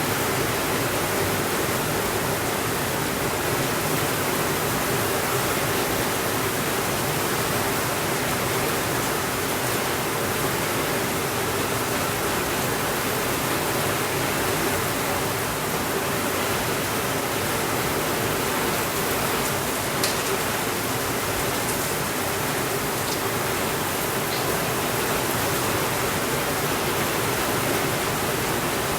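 Steady rainfall making an even hiss, with one sharp click about two-thirds of the way through and a couple of fainter clicks soon after.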